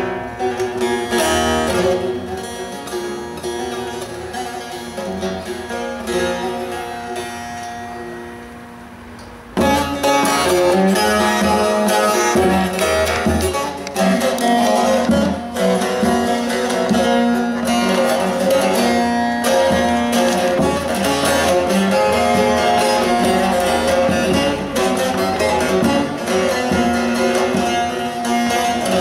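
Bağlama (saz) with a carved mulberry bowl being played, a plucked melody that fades down over the first several seconds, then comes back in suddenly loud about a third of the way in and goes on steadily.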